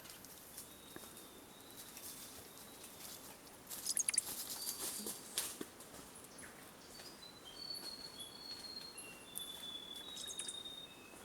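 Small forest birds calling: short, thin, high whistled notes, most of them in the second half, and a few sharp clicks about four to five seconds in.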